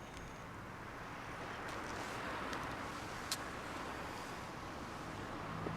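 A car running on the road: a low, steady rumble of engine and tyres that swells a little in the middle, with one short click about three seconds in.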